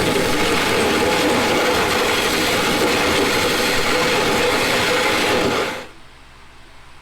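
A handheld power tool running steadily under load for about six seconds, then stopping abruptly.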